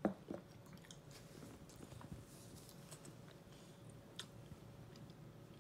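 A toddler chewing spaghetti, with a few light clicks from a fork and bowl. A brief sharp sound at the very start is the loudest thing.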